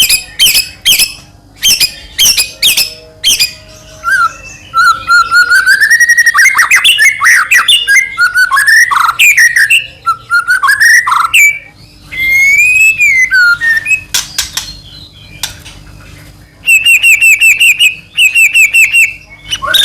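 White-rumped shama (murai batu) singing a loud, varied song: quick runs of sharp repeated notes, then flowing whistled phrases that glide up and down, and fast chattering trills near the end.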